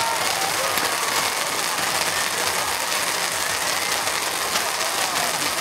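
Many toy firework fountains going off at once, shooting sparks and giving a dense, unbroken crackle of rapid pops.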